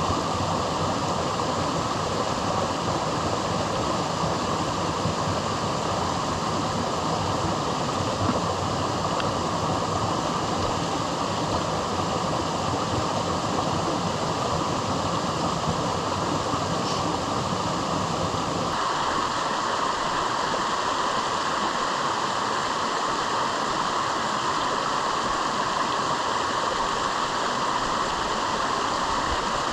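Steady rushing noise of strong wind and rain. About two-thirds of the way in it changes abruptly, losing much of its deep rumble and sounding thinner.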